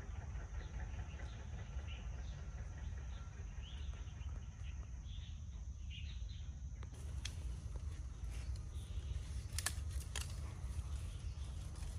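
Birds chirping in short calls over a steady low rumble and a constant thin high tone. Several sharp clicks or snaps come in the second half.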